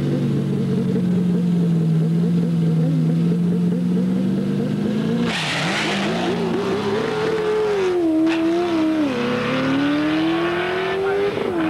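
Ford Mustang drag car's engine held at steady revs on the start line, then launching about five seconds in with a burst of tyre noise. The engine note climbs and drops at each gear change as the car pulls away down the strip.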